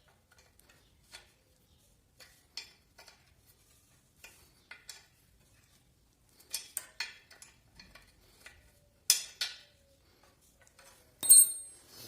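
Small metal parts and hand tools being handled during a bicycle repair: scattered light clicks and clinks that grow busier partway through, then a louder metallic clink with a brief high ring near the end.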